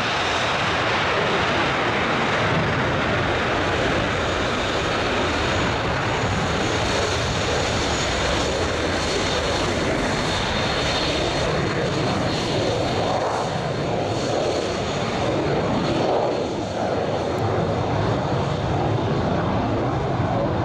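Military fighter jet engines running loud and steady, a dense rush of noise with a thin high whine over it.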